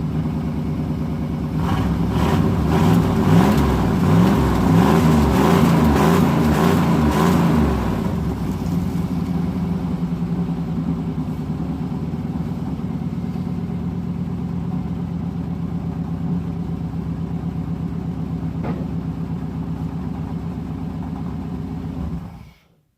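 Chevrolet 350 small-block V8 running after being revived from a long-dead junkyard truck. It is revved up and down several times in the first eight seconds or so, then settles into a steady idle, and cuts off suddenly near the end.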